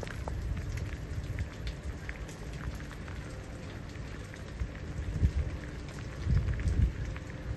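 Steady rain falling, with many scattered drops ticking close by and low rumbling that swells near the end.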